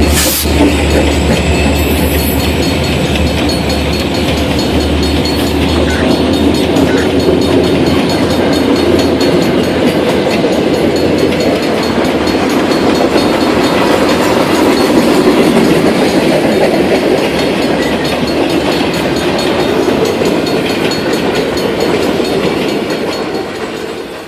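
Freight train passing close by: the low drone of its diesel locomotives fills the first few seconds, then the rolling cars rumble and clatter over the rail joints. The sound cuts off suddenly at the end.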